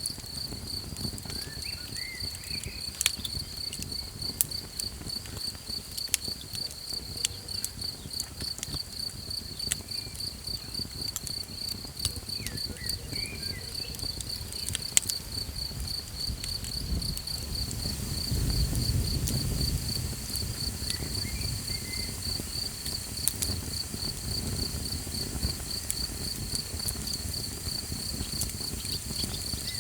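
Crickets chirping in a steady, fast pulsing trill, with sharp crackles and pops from a campfire scattered through it. A low rumble swells briefly about two-thirds of the way in.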